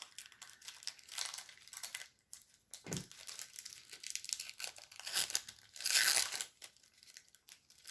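Trading card pack wrapper crinkling and tearing as a pack is handled and cards are sorted: irregular short crackles, loudest about six seconds in.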